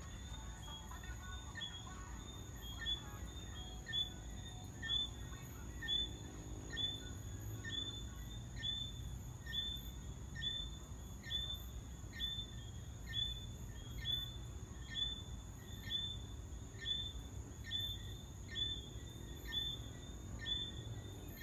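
Jamaican tree frogs calling: a short, high chirp repeated about once a second. A steady high-pitched insect drone and a low background rumble run underneath.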